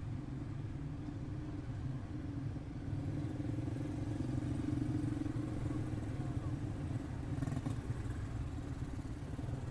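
Pack of quarter midget race cars running on the track, their small single-cylinder engines making a steady buzz that swells a little in the middle, as the cars come nearer, then eases off.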